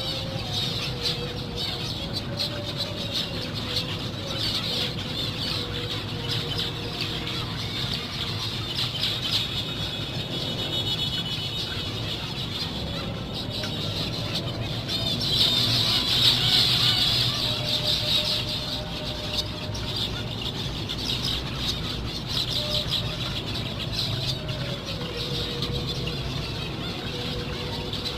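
A colony of zebra finches calling all the while: many short, nasal beeping and chattering calls overlapping, louder for a couple of seconds just past the middle, over a steady low hum.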